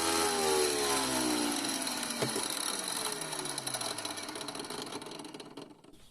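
Electric wet saw used for cutting glass bottles, switched off and spinning down: its motor hum falls steadily in pitch and fades away over about five seconds, with one sharp click about two seconds in.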